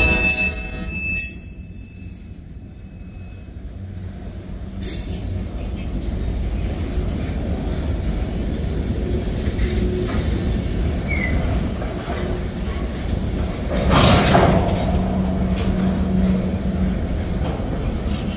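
Freight train of tank cars and covered hoppers rolling past: a steady low rumble of wheels on rail. The locomotive horn's last note cuts off at the very start, and a thin high wheel squeal carries on for the first few seconds. A louder burst of noise comes about fourteen seconds in.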